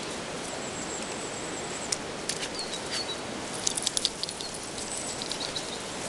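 Steady outdoor background hiss with a few short high bird chirps, and a quick run of sharp clicks about four seconds in.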